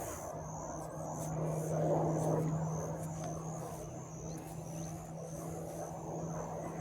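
A steady low engine hum, with a swell of louder noise about two seconds in.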